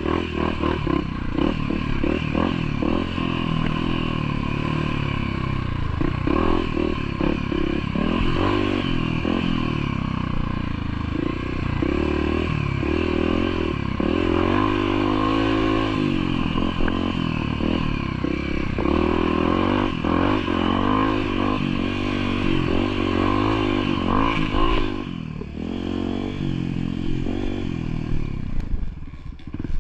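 Motorcycle engine running continuously while riding, revs rising and falling with the throttle, with some rattling; the engine eases off briefly about 25 seconds in.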